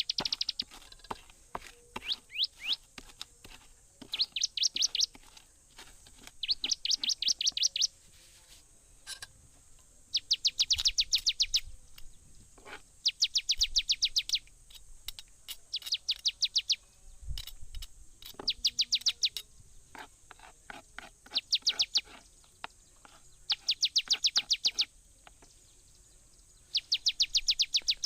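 A songbird repeating a loud, fast trill of sharply falling high notes, each phrase about a second long, every two to three seconds.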